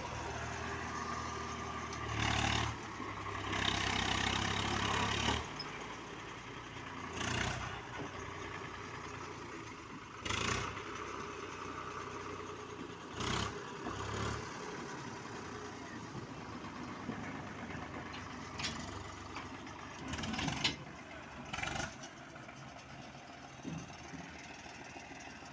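A vehicle engine running, louder for about the first five seconds and then quieter, with short bursts of noise over it several times.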